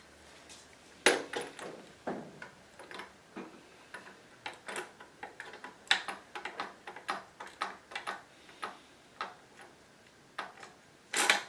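Irregular metallic clicks and light knocks of hand tools and exhaust fasteners being worked on a motorcycle's exhaust pipes, with a louder knock about a second in and another near the end.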